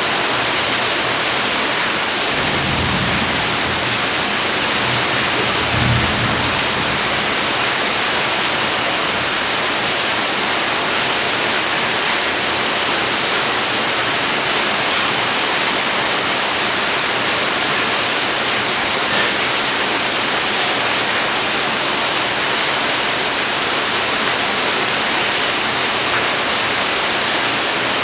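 Heavy rain falling steadily, a dense even hiss. Two brief low rumbles come through, about two and six seconds in.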